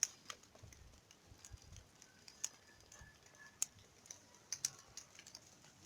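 Quiet, with a few faint, sharp clicks and ticks at irregular intervals.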